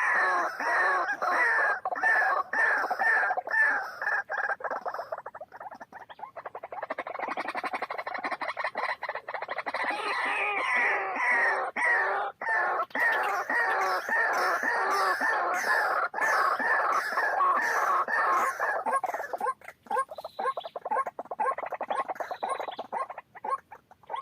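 White-breasted waterhen (ruak-ruak) calling: a long, rapid run of repeated harsh croaking notes that thins out to scattered notes after about nineteen seconds.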